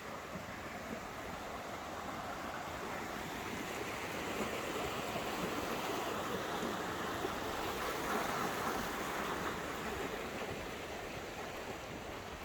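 Rushing stream water, a steady splashing rush that swells louder through the middle and eases off again near the end.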